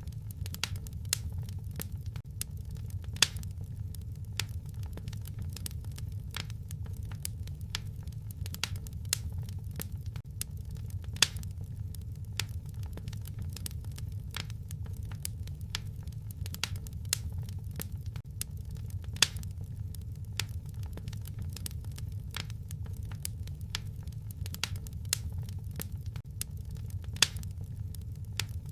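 Wood fire crackling: irregular sharp pops and snaps, a few louder than the rest, over a steady low rumble of the burning fire.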